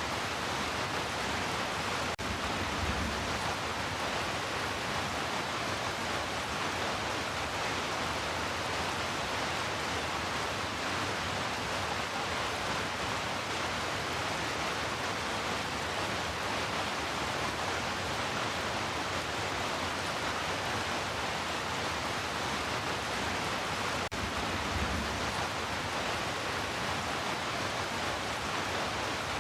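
Heavy rain falling: a steady, dense hiss. A faint low rumble comes about three seconds in and again near the end.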